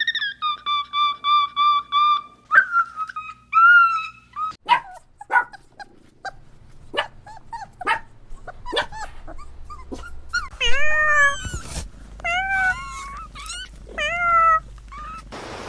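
Dog yipping and whimpering. A quick run of short, high yips opens it, then scattered sharp yelps, then a run of high whining calls that each drop in pitch.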